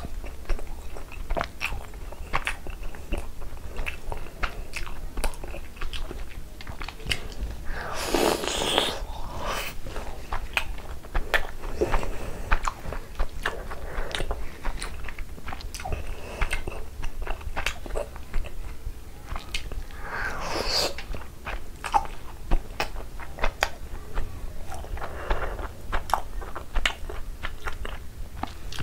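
Close-up mouth sounds of a person biting and chewing a soft, syrup-soaked orange rasgulla: steady wet clicks and smacks, with a few louder, longer squelching bursts.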